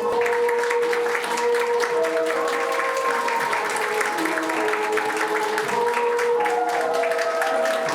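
Guests clapping steadily over recorded music with a slow, held melody; the applause starts right at the beginning.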